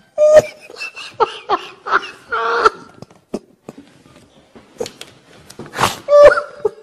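A person's voice making short non-word vocal sounds that slide up and down in pitch, in quick bursts with pauses, and a sharp breathy burst about six seconds in.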